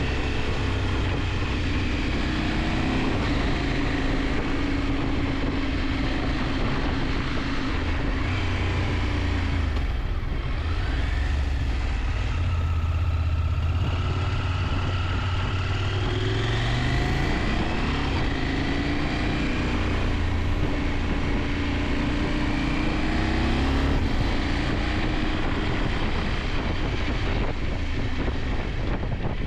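KTM 890 Adventure's parallel-twin engine running under way, its pitch rising and falling again and again as the rider accelerates and changes gear.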